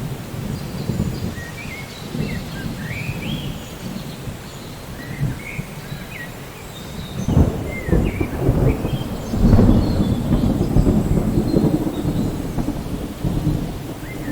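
Steady rain with a low thunder rumble that swells about halfway through and is loudest around two-thirds of the way in. Short, high, rising chirps sound now and then above the rain.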